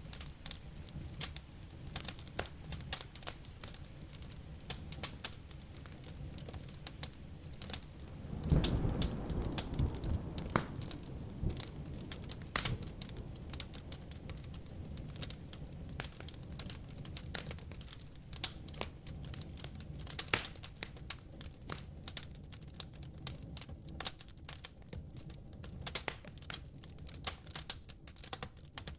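Wood fire crackling and popping steadily over a low rumble. About a third of the way in, a rumble of thunder swells up suddenly and fades over a few seconds.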